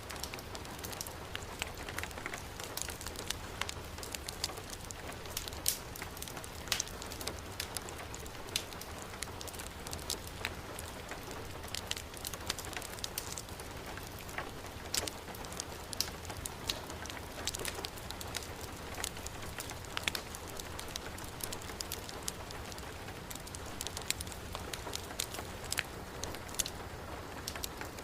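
Heavy rain falling steadily, mixed with a wood fire crackling in a fireplace, with irregular sharp pops scattered throughout.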